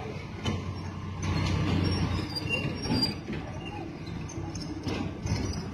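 Heavy machinery running steadily with a low hum, with short high metallic squeaks and a couple of sharp knocks, typical of a crane at work lifting a steel or concrete load.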